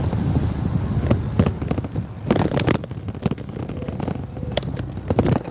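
Low rumble of a motorbike ride with irregular knocks and clatters scattered through it.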